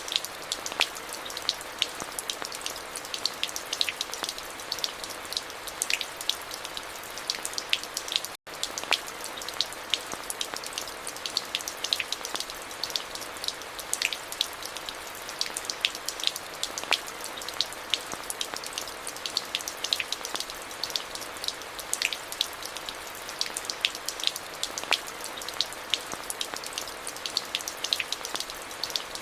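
Steady rain, with many close, sharp drop strikes over an even hiss. It cuts out for a split second about eight seconds in.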